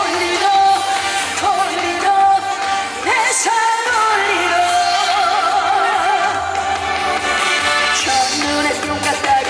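A female trot singer sings live over an amplified band backing track. Midway through she holds a long note with vibrato.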